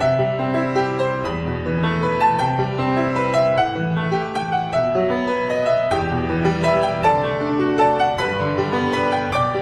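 Background piano music, a gentle melody over held chords.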